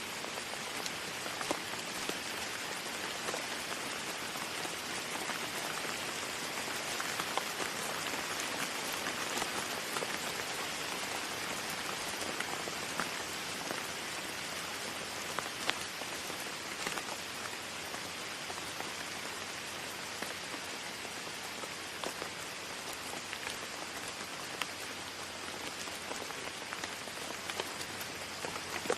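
Steady rain falling, an even hiss with many distinct drops ticking and pattering on surfaces close by.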